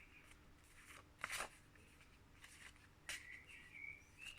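Near silence, broken by a couple of faint brief rustles, one about a second in and one about three seconds in, from a pack of phonics flashcards being handled.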